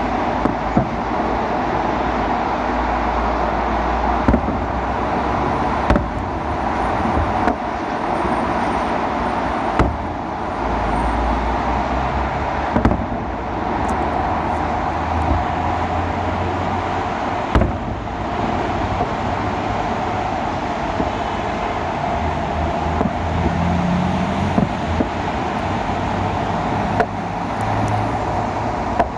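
Steady city traffic noise, with sharp bangs from the fireworks salute every few seconds.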